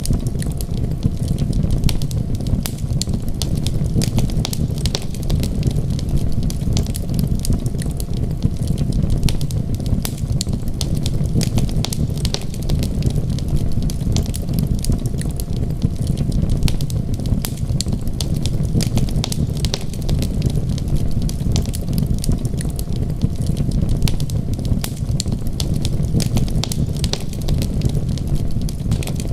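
Crackling fireplace fire, many small sharp pops and snaps coming irregularly over a steady low rumble.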